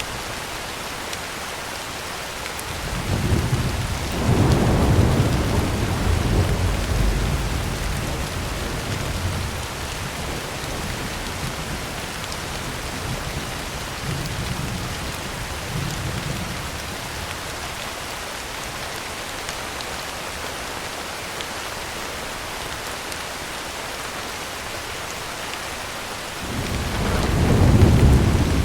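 Heavy rain drumming steadily on a tin roof, with thunder rumbling: a long roll swells a few seconds in and dies away, fainter rumbles follow, and another roll builds near the end.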